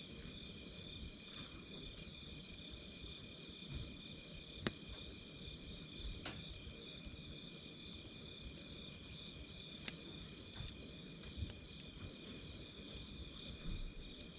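Wood fire crackling, with a few sharp pops about five, six and ten seconds in, over steady, pulsing insect chirping.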